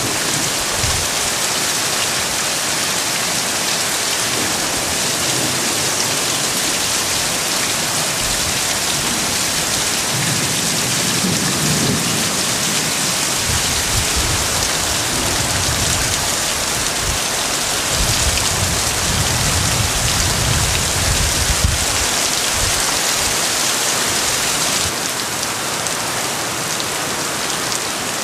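Heavy rain pouring steadily, a dense hiss of drops hitting surfaces. Through the middle stretch, low rumbling gusts of wind buffet the microphone; the rain eases slightly near the end.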